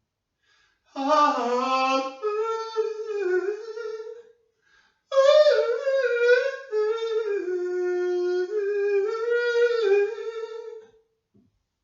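A lone voice singing a slow melody without accompaniment and without clear words, in two phrases, the second long with held, wavering notes.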